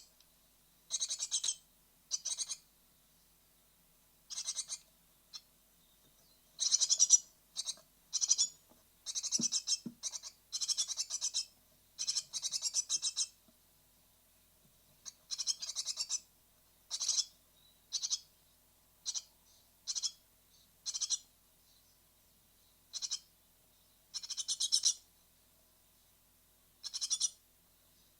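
Great tit nestlings giving short, harsh, rapidly pulsed begging calls in irregular bursts every second or so, the noisy clamour of young about to fledge. There is a brief low knock about nine seconds in.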